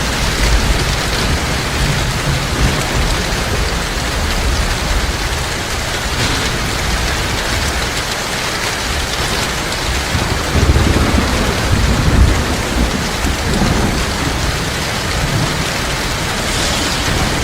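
Heavy rain falling steadily, with thunder rumbling low. The rumble swells about ten seconds in and eases a few seconds later.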